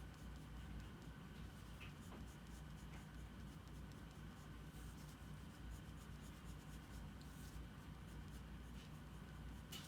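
Faint scratching of a drawing tool on paper in short strokes, over a steady low hum.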